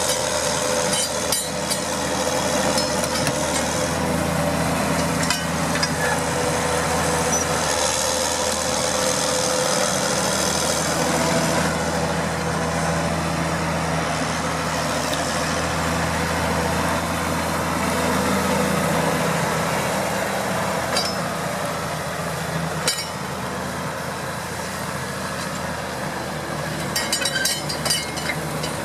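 John Deere 6930 tractor's six-cylinder diesel engine running steadily under load while plowing, with a steady engine note and a broad rumble. A cluster of metallic clinks and rattles comes near the end.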